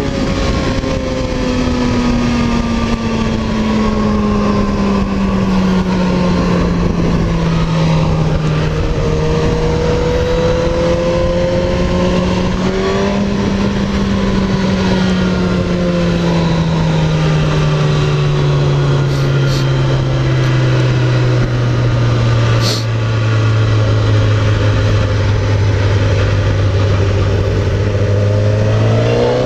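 Suzuki GSX-R1000R inline-four engine under way, its note sinking slowly as the bike rolls off, climbing briefly about halfway through, then rising sharply as the throttle opens at the very end, over steady wind rush.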